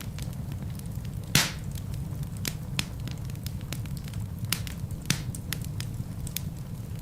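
Wood fire burning in a fireplace: a steady low rumble of flames with frequent sharp crackles and snaps, and a loud pop about a second and a half in.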